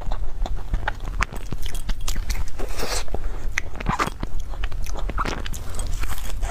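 Close, crunchy chewing of a crumb-crusted cream puff: irregular crisp crackles as the crumbly topping breaks between the teeth, with a fresh bite near the end.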